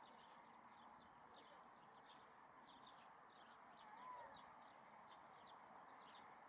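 Faint birdsong: a quick run of short, high chirps that slide downward, with one brief whistled note about four seconds in, over a faint steady hiss.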